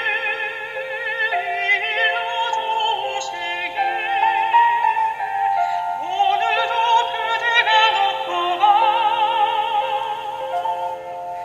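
A soprano singing a slow song with wide vibrato over sustained instrumental accompaniment.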